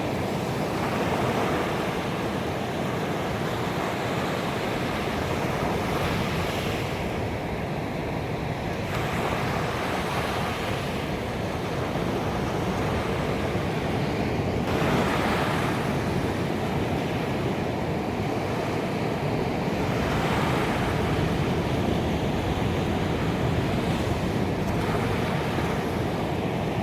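Ocean waves breaking on a beach, a continuous wash of surf that swells gently every few seconds.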